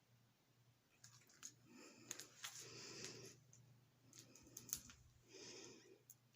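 Faint breathing: two slow, soft breaths, the first longer, with scattered small clicks and a steady low electrical hum underneath.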